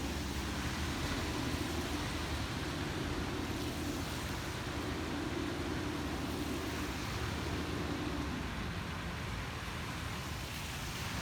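A vehicle engine droning steadily over a noisy outdoor rush, the drone fading about eight and a half seconds in.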